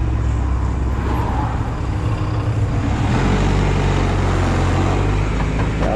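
Honda Silver Wing maxi-scooter's engine running while riding, under a steady rushing noise; the engine note changes about three seconds in.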